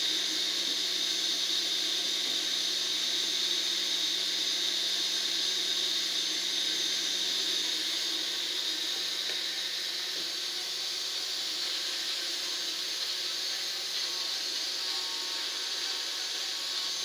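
Small DC motor of a homemade cardboard table fan running steadily: a high whine over an airy hiss, which drops a little about ten seconds in.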